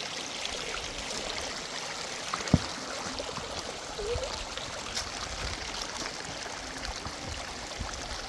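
Steady rush of running water, like a stream, with one sharp click about two and a half seconds in.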